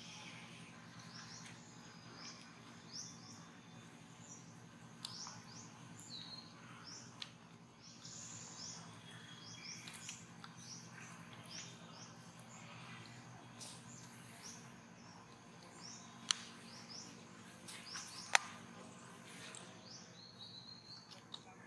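Birds chirping quietly in the background: short, high, sliding chirps repeating throughout. Two sharp clicks sound near the end, about two seconds apart, over a steady low hum.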